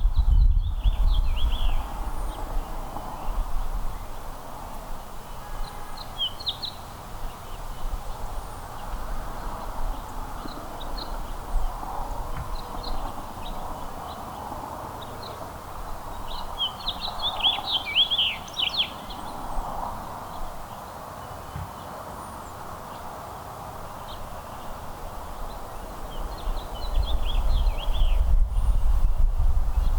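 Small songbirds chirping in short, scattered bursts, with a busier flurry of chirps about two-thirds through, over steady outdoor ambience. A low rumble sits under the birds at the start and again near the end.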